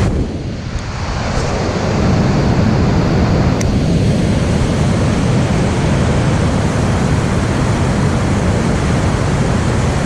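Steady rushing wind noise buffeting the camera microphone, heaviest in the low end, easing briefly just after the start.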